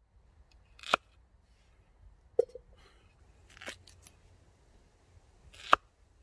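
Knife chopping potatoes roughly: a few separate sharp chops, the loudest near the end, and a short ringing clink about two and a half seconds in.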